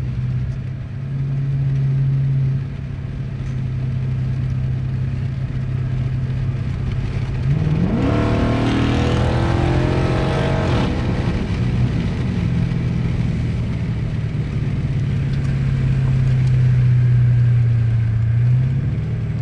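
2013 Dodge Charger's engine and exhaust, with the muffler and resonator deleted, droning steadily while driving. About eight seconds in it revs up sharply under acceleration for about three seconds, then settles back to a steady drone; it is loud.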